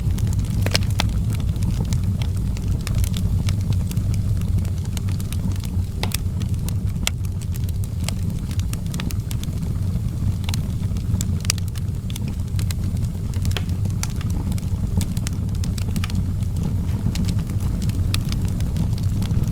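Wood fire burning in an outdoor fireplace, with frequent irregular sharp crackles and pops over a steady low rumble.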